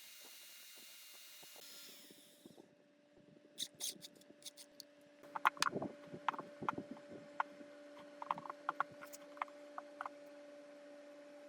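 Workshop work on metal parts: a run of sharp clinks and knocks over a steady electric hum, after a steady hiss that stops about two and a half seconds in.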